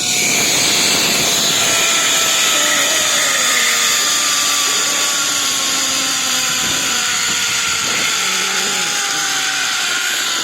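Zipline trolley pulleys running along the steel cable with a loud, steady whir and hiss, the pulley whine slowly falling in pitch as the ride slows.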